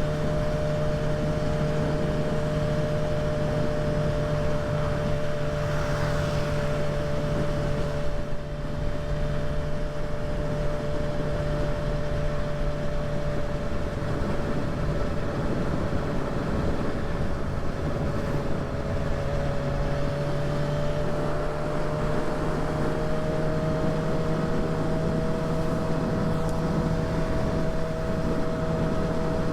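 Kawasaki ZX-6R inline-four engine running at a steady cruise, its note holding nearly constant and edging up slightly after about 20 seconds, under a steady rush of wind noise.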